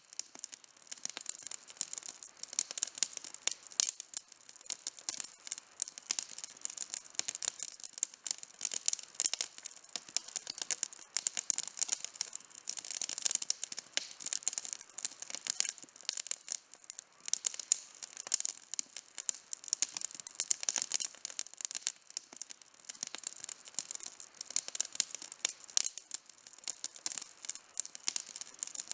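Wood campfire burning and crackling, with a constant stream of small, irregular pops and snaps over a light hiss.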